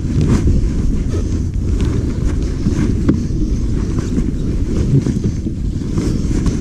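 Heavy wind buffeting on the microphone over the low, uneven rumble of an off-road motorcycle riding.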